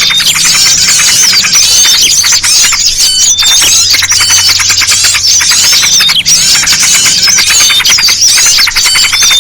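Bird-lure recording: a dense, loud chorus of many small songbirds, including yellow-vented bulbul calls, chirping, trilling and whistling over one another without a pause. A steady low hum runs underneath.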